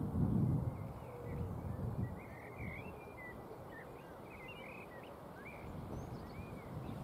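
Small birds chirping, a scatter of short calls from about two seconds in until near the end, over a low rumble of wind on the microphone that is louder in the first second.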